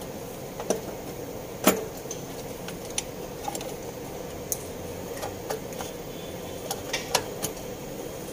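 Scattered metallic clicks and clinks of hand tools and parts being handled during engine-bay work, the loudest about a second and a half in and a quick run of them near the end.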